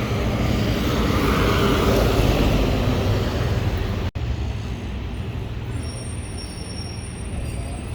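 Road traffic: a large vehicle passes, loudest about two seconds in. The sound cuts off abruptly a little after four seconds and gives way to quieter, steady traffic noise.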